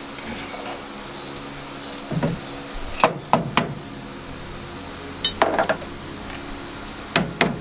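Metal-on-metal knocks and clinks from a hammer on sheet-metal body panel: a few separate taps, then a fast run of hammer blows starting near the end. A steady low hum runs underneath.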